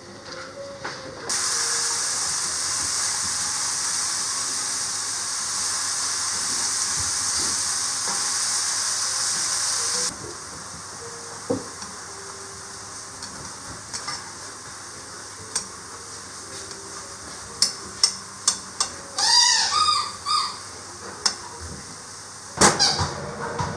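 A steady hiss that starts suddenly and cuts off after about nine seconds, followed by scattered clicks and knocks and a short run of rising-and-falling whines.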